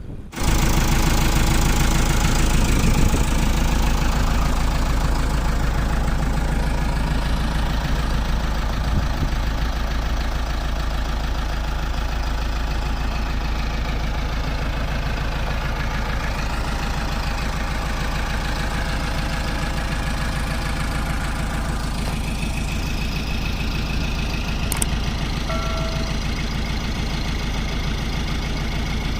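Diesel engine of heavy earthmoving machinery running steadily, with a deep rumble, cutting in suddenly just after the start.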